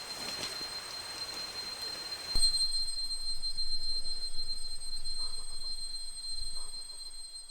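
Cicadas droning in the forest: a steady, high-pitched ringing tone that turns louder and fuller about two and a half seconds in.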